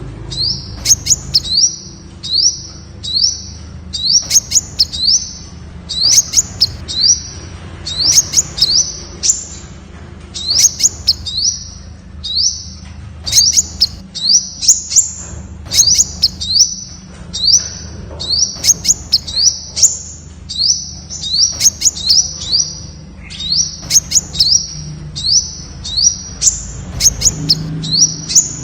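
Temminck's sunbird singing: short, high, upward-sweeping notes repeated about twice a second in continuous runs, over a low steady hum.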